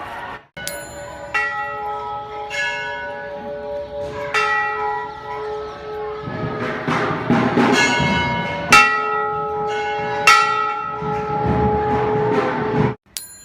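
Metal bells struck over and over, roughly once a second, each strike ringing on with several long tones. A noisy wash builds under the bells twice. The sound cuts off abruptly just before the end.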